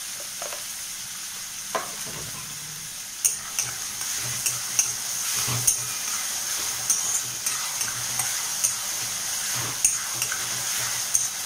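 Chopped onion, ginger, garlic and green chilli sizzling in hot oil in a metal kadhai over a high flame. From about three seconds in, a metal spatula stirs them, scraping and clicking against the pan.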